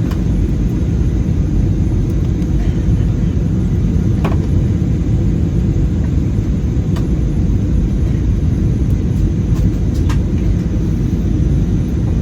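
Steady low rumble of airflow and the CFM56 engines, heard from inside the cabin of an Airbus A320 in flight. A few faint clicks from cabin fittings sound over it.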